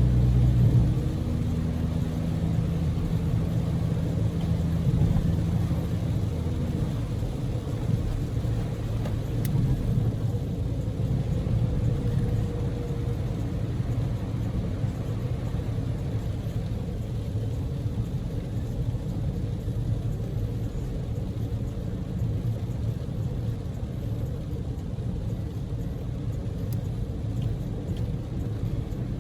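A Daihatsu Move L150S's small three-cylinder engine and tyre-on-road rumble, heard while the car is being driven. A steady engine hum fades out about six seconds in, leaving an even low road rumble.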